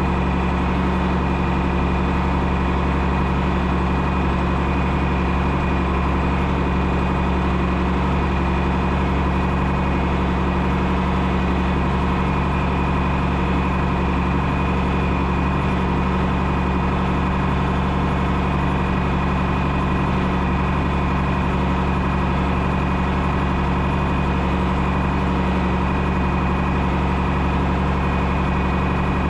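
1972 John Deere 6030 tractor's six-cylinder diesel engine running at a steady speed, with no change in pitch or level.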